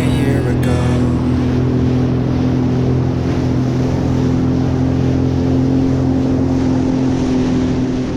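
Jet ski engine running steadily at speed: a constant drone over a rush of water and wind.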